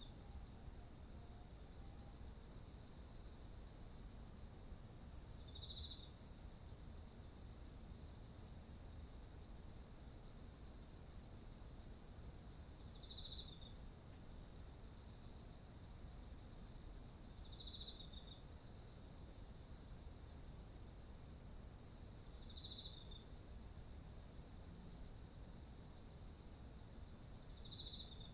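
Several autumn insects singing together: one keeps up a steady, very high continuous trill, another sings a pulsing trill in phrases of a few seconds broken by short pauses, and a short, lower chirp recurs every four to five seconds.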